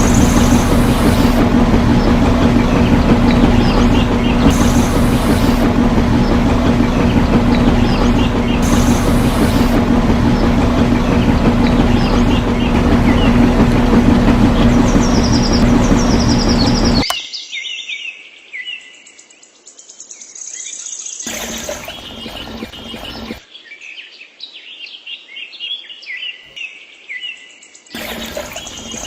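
A small motor runs steadily with a loud hum, then cuts off abruptly about two-thirds of the way through. Birds chirp after it stops.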